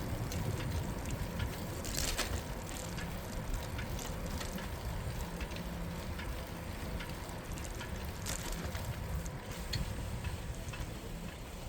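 Steady city street noise heard from a moving bicycle: a low rumble of traffic and rolling tyres, with a few short clicks or rattles about two seconds in and again near eight seconds.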